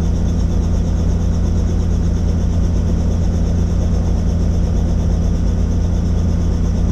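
Helicopter in flight: steady engine and rotor noise, a loud, even low drone.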